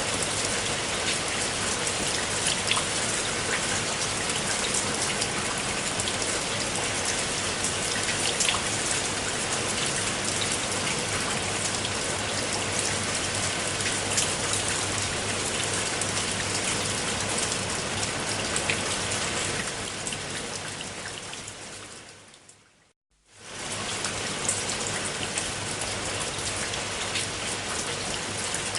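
Steady rain with a dense patter of drops. About twenty seconds in it fades out to silence over a few seconds, then cuts back in abruptly at full strength.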